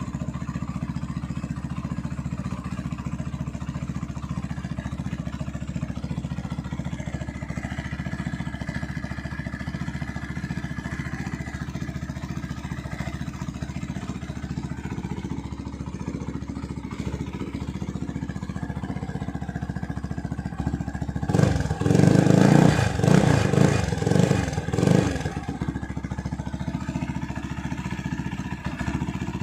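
Benelli Leoncino 250 motorcycle's single-cylinder engine idling steadily through a wrapped exhaust. About three quarters of the way in it is revved in several quick blips, then settles back to idle.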